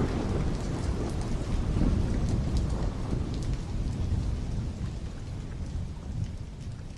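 Rain-and-thunder sound effect, slowed down: steady heavy rain with a low rumble of thunder beneath it, fading out gradually over the last few seconds.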